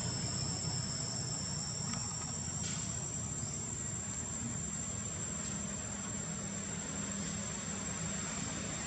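Insects calling: two steady high-pitched tones that do not change, over a low rumble.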